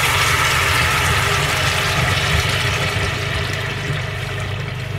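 Blended chilli, tomato and shallot paste sizzling in hot oil in a stainless steel pan as it is poured in, the sizzle strongest at first and slowly easing. A steady low hum runs underneath.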